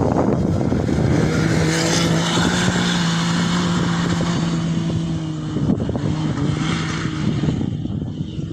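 Engine of an off-road rally competitor holding a steady note from about a second in, over a constant rumble of wind on the microphone.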